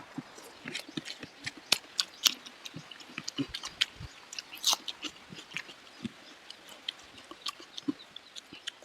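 A person chewing and eating pork curry close to the microphone: irregular wet smacks and clicks of the mouth, several a second.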